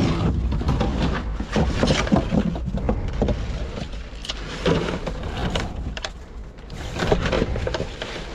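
Rummaging through trash: irregular rustling and knocking of bags and items being handled, over a steady low rumble.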